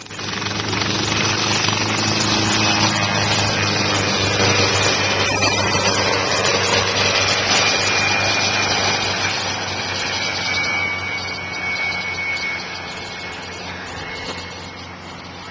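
Helicopter running, a loud steady din of rotor and engine with a thin high whine, growing quieter over the last few seconds.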